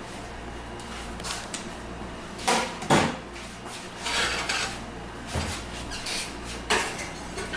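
Kitchen clatter: several separate knocks and clinks of dishes and cookware being handled, the sharpest two about two and a half and three seconds in, over a steady low hum.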